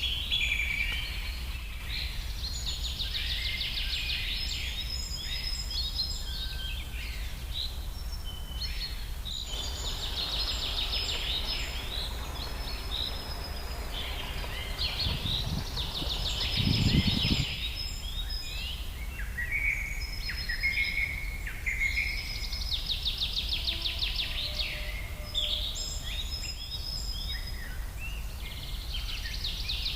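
A chorus of wild birds singing and calling over one another, with repeated fast trills and short chirps, over a low steady hum. About halfway through there is a brief low rumble, the loudest moment.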